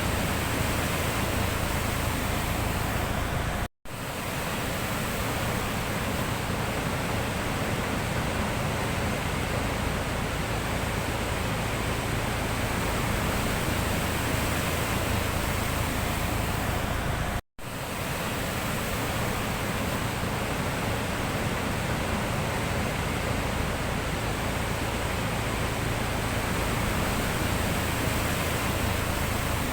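Steady rushing of sea surf, broken twice by a sudden drop to silence that fades back in within about a second.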